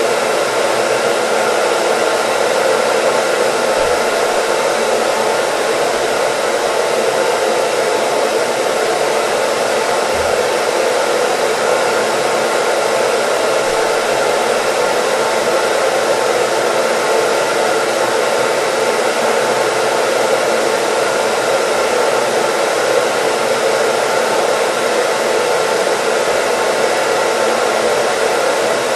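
Hair dryer running steadily: a constant, even blowing whoosh that never changes in pitch or loudness.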